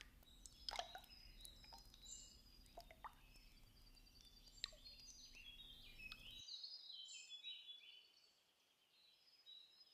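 Faint bird calls and chirps, with a few soft clicks.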